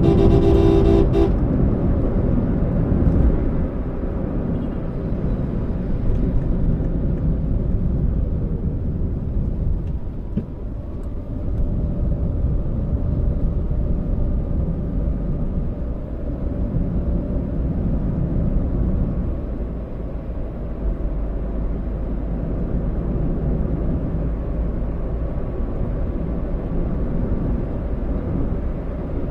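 Toyota Allion driving: steady engine and road noise inside the car, a low rumble that rises and falls slightly with the traffic.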